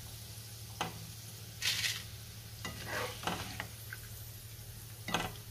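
Dried grated potato shreds sizzling in hot oil in a wok, with about five short scraping strokes as a metal spoon stirs them and lifts them out of the oil.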